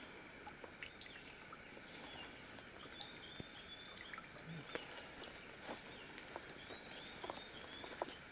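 Faint birdsong: runs of short, repeated chirping notes, one about three seconds in and another about seven seconds in. Scattered soft clicks sound over quiet outdoor background.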